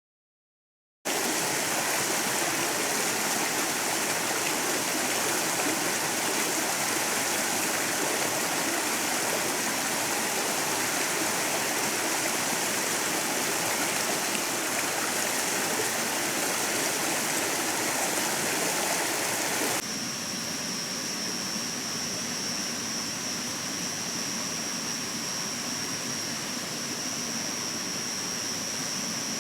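Stream water rushing steadily over rocks, starting abruptly about a second in. About two-thirds of the way through it cuts to a quieter stretch of running water with a steady high-pitched tone on top.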